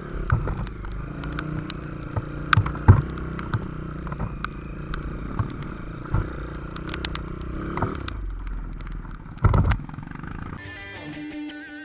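Motorcycle engine running during a ride, with frequent clattering knocks and a heavy thump near the end. Guitar music comes in during the last second.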